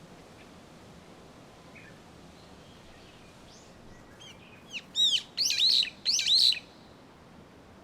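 A songbird singing one short phrase of quick, high, arching chirps that starts softly about four seconds in, turns loud, and stops after a second and a half, over a faint steady background hiss.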